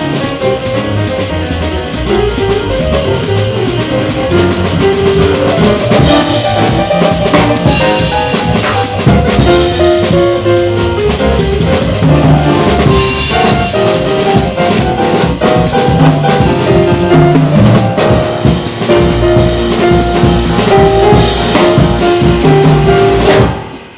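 Jazz piano trio playing: piano, bass and drum kit, with busy drumming prominent. The music stops abruptly near the end.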